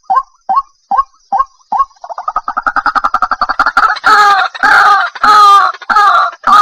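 White-breasted waterhen calling. It gives short notes at about two or three a second, then about two seconds in breaks into a fast stutter that builds into loud repeated calls, each about half a second long.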